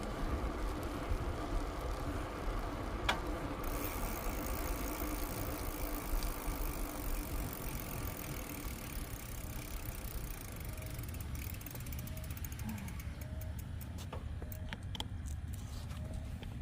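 Bicycle rolling along a trail with steady tyre and wind noise; in the last few seconds the rear freewheel hub ticks as the rider coasts, quick at first and then slowing.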